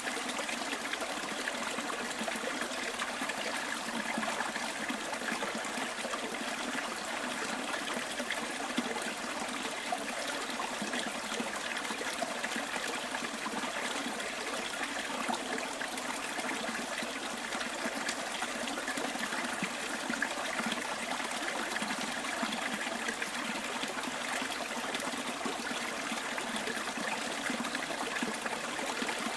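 Stream water trickling and running steadily, an even rushing sound.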